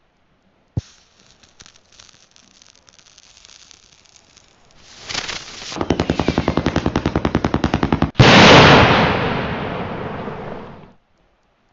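Strobe firework going off: a single pop, faint crackling and a rising hiss, then a fast rattle of pops about ten a second. A loud burst follows, fading with a hiss until it cuts off suddenly near the end.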